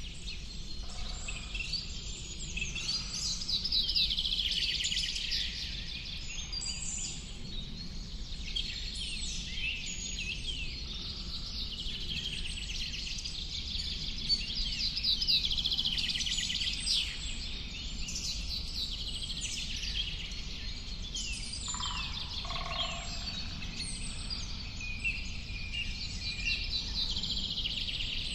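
Many birds singing at once, a dense chorus of overlapping chirps and trills, over a steady low rumble.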